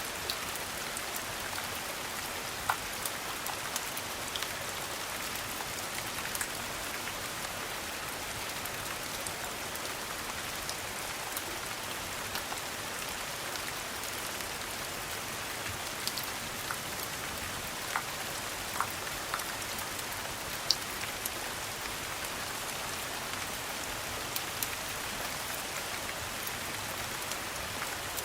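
Steady rain falling on a hard surface, an even hiss with scattered sharp ticks every few seconds.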